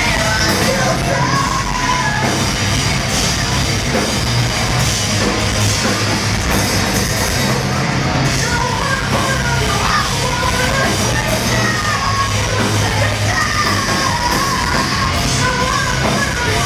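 Live heavy rock played loud through a venue PA, with a singer shouting and singing over distorted guitars, bass and drums.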